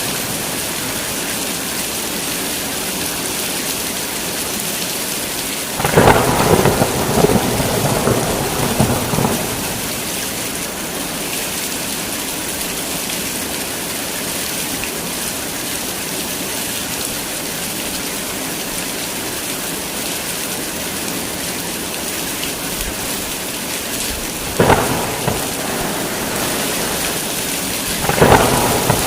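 Steady heavy rain with thunder: a crack of thunder about six seconds in that rumbles on for a few seconds, and two more sharp claps near the end.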